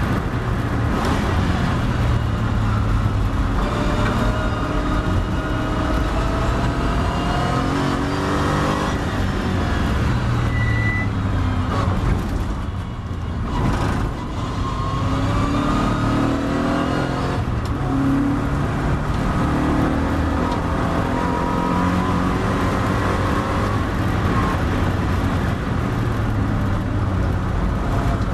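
Triumph TR7 race car engine heard from on board at racing speed over wind and road noise, its note rising repeatedly between gear changes. About halfway through the engine drops away as the car lifts off and slows for a corner, then it pulls up through the gears again.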